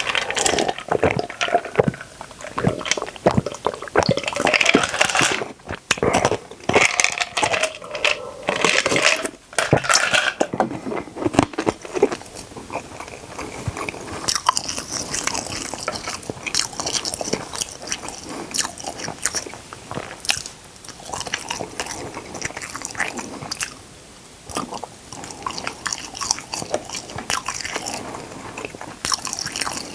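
Close-miked eating: repeated crunchy bites and chewing, coming irregularly.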